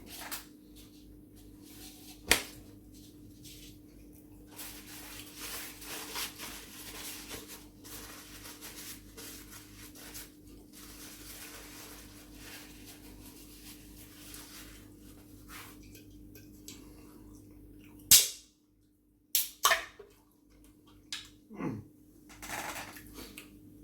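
Close-miked eating of fried chicken: chewing and crunching with a few sharp, loud snaps, the loudest about eighteen seconds in, over a faint steady hum.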